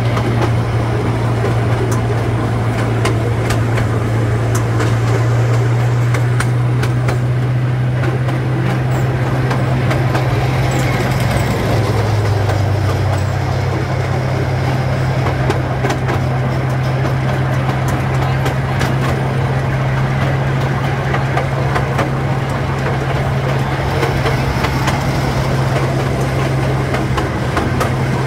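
Miniature amusement-park train running along its track: a steady low drone from its motor, with scattered clicks and clacks from the wheels and cars.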